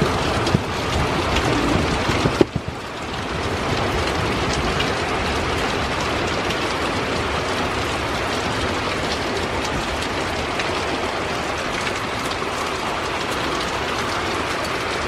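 Heavy rain pouring steadily in a thunderstorm, with a couple of sharp knocks in the first few seconds.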